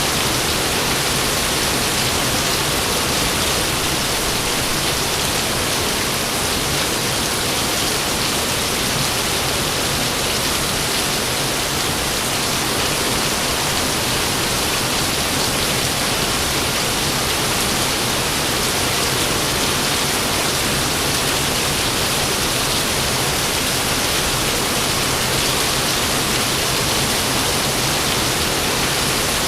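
Rain falling steadily, an even hiss with no thunderclap.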